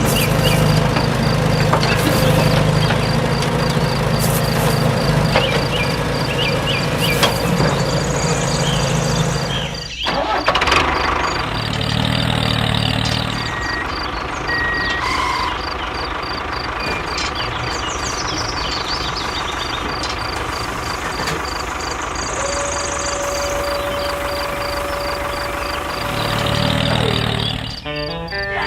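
Vehicle engine running, loud at first, then cutting abruptly about ten seconds in to a quieter engine sound, with a faint even ticking about three times a second. Near the end a steady tone holds for a few seconds.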